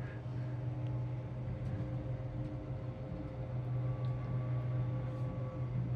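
Steady low hum inside a moving cable-car cabin running along its line, with a faint higher whine joining a little past halfway and a few light ticks.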